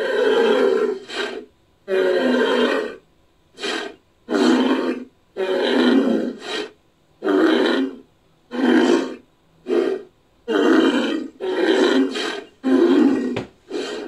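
Made-up creature sound effect built from an edited woolly rhinoceros sound effect: a string of about a dozen animal-like calls, longer ones of about a second mixed with short ones, separated by brief gaps.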